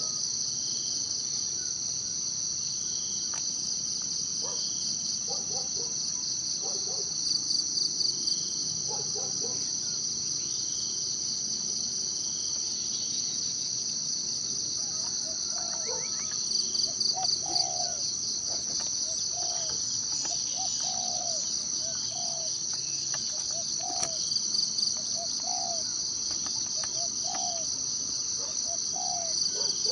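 Insect chorus: a steady, high-pitched pulsing trill that swells louder roughly every eight seconds. From about halfway through, a bird calls with short, low notes repeated about twice a second.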